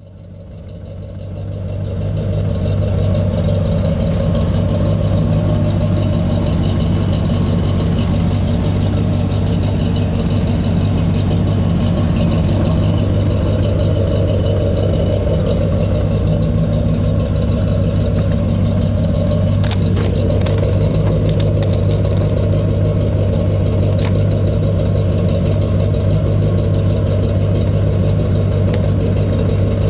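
1984 Corvette C4's 5.7 L V8 idling steadily through Flowmaster 50 series mufflers on a dual exhaust, a deep, even exhaust note.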